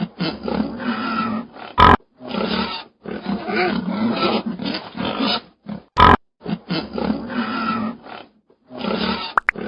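A large wild animal roaring in a series of long, rough calls with short breaks between them. Two sharp clicks sound about two and six seconds in.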